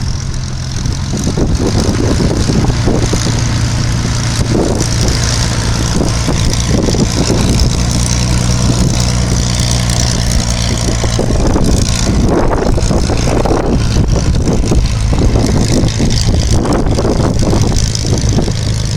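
Piston engine running steadily at low power, its pitch holding constant throughout.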